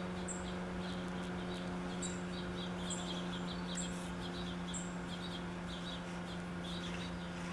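Small birds chirping, with short high chirps repeating roughly once a second over a steady low hum.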